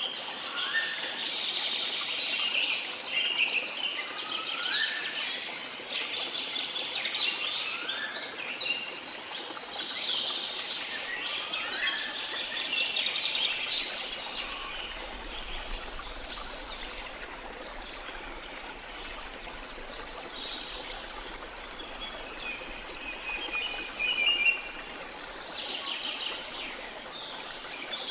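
A chorus of many birds chirping and calling over a steady rush of running water, with several rising whistled notes in the first half. The chorus thins in the second half, with one brief louder note near the end.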